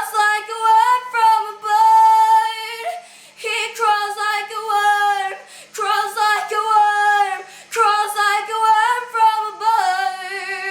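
A high female voice singing the song unaccompanied: long held notes with vibrato in four phrases, with short breaths between them.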